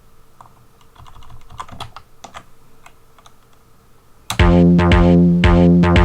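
Computer keyboard keys clicking faintly, then about four seconds in a loud tracker pattern starts playing back: sustained sampled notes over a kick drum hitting about twice a second, built from old Amiga Soundtracker samples.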